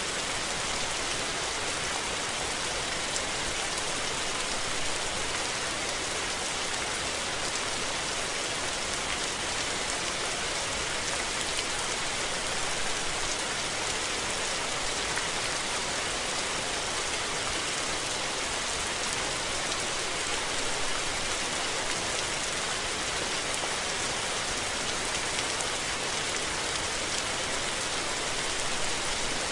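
Steady rain falling: an even, unbroken hiss with scattered taps of single drops.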